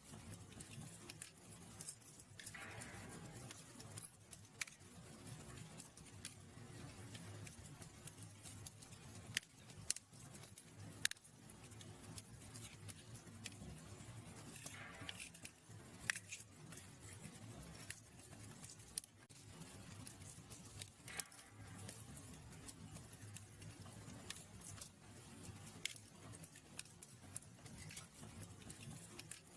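Wood fire burning in a fireplace: irregular sharp crackles and pops over a low, steady rumble of flame, with a couple of brief hisses.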